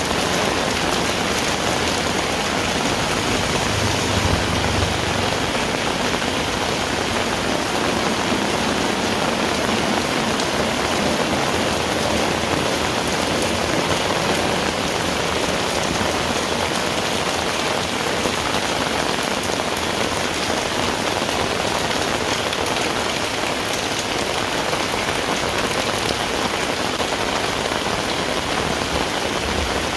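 Heavy rain falling steadily, a dense hiss of drops on the surfaces around, with a brief low rumble about four seconds in.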